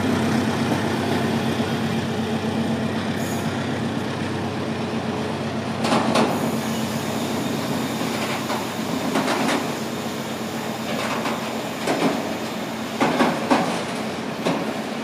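Double-deck passenger train pulling out behind an SM42 diesel locomotive, with steady running noise and engine hum slowly fading as it draws away. Wheels clack sharply over rail joints, several single and paired clacks from about six seconds in.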